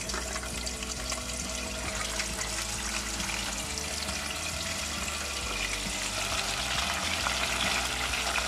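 Chicken pieces deep-frying in hot oil in a small pot: a steady sizzle full of crackles, getting louder toward the end.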